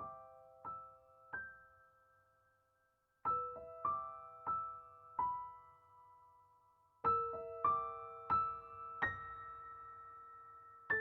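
Slow, gentle piano music: a few notes struck at a time and left to ring out, with a short pause about two seconds in before the next phrases.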